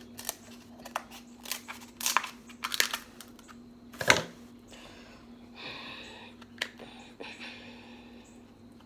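Eating a seafood boil with king crab: scattered cracks and crackles of shell being broken and picked apart, with one sharp snap about four seconds in and a softer crinkling rustle after it.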